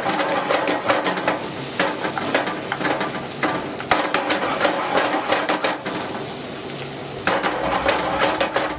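Coq au vin sauce bubbling in the pan with a steady sizzling hiss while cold butter is worked in to thicken and glaze it, with frequent clicks of a utensil against the pan.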